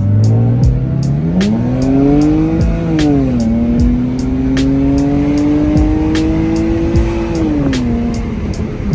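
Car engine accelerating hard, revs climbing and then dropping at an upshift about three seconds in, pulling steadily up through the next gear and dropping again near the end. A music beat with a steady tick about twice a second plays over it.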